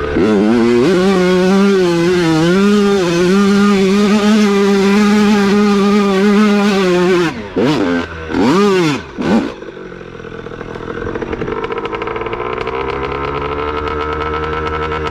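Dirt bike engine held at high revs for about seven seconds, then blipped sharply twice. It then runs quieter, its pitch slowly rising.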